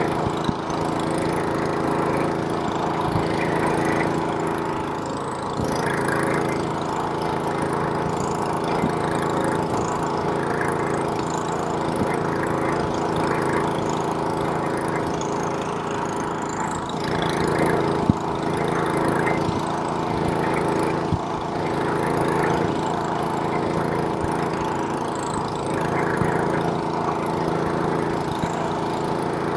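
Gas snowblower's small engine running steadily under load while clearing snow, with a few brief knocks.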